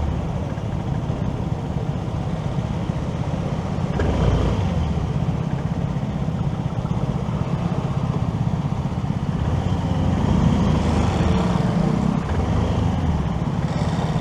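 Motorcycle riding through city traffic: engine and road noise with steady wind rumble on the microphone, getting louder about four seconds in and again around ten seconds.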